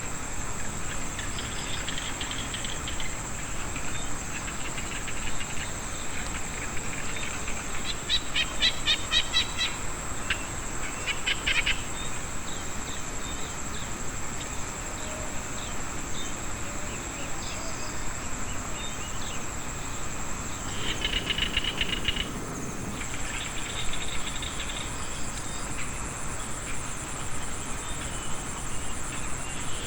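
Frogs and insects calling after rain: a steady high insect trill throughout, with bursts of fast pulsed calls about a third of the way in and again about two-thirds in.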